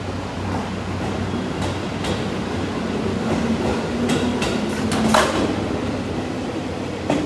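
Electric train rolling along the platform, with a steady running hum and a series of sharp wheel clanks over rail joints, the loudest about five seconds in and a double clank near the end.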